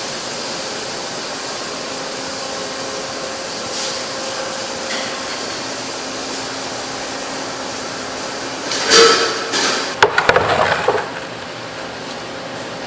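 A steady background hiss. About nine seconds in comes a short run of sharp knocks and clatter, like hard objects being handled and set down, lasting about two seconds.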